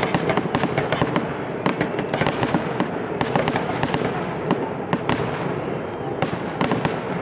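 Fireworks display: dense, continuous crackling and popping of bursting shells, several sharp bangs a second.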